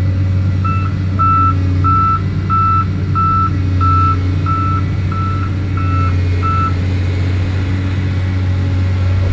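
Truck's reversing alarm beeping about eleven times at a steady pitch, a little under two beeps a second, then stopping. Under it runs a loud steady low engine hum.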